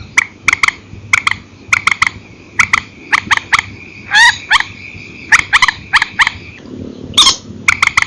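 Grey-headed swamphen giving sharp, clipped calls, singly and in quick pairs, with two longer calls sliding downward about four seconds in and near the end. A steady high whine runs underneath.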